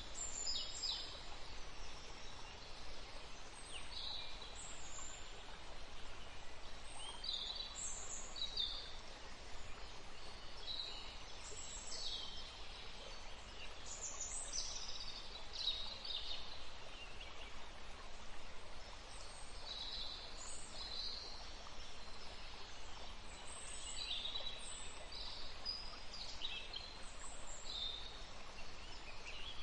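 Small songbirds chirping and singing in short high phrases, scattered through the whole stretch, over the steady rush of a forest stream.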